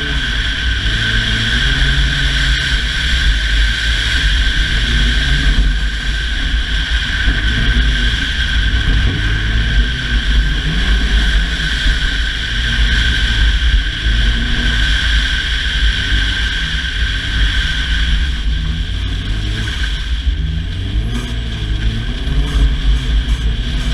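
Ford Fiesta ST rally car heard from inside the cabin, its engine revving up and down as it is driven hard, under a loud steady rushing noise.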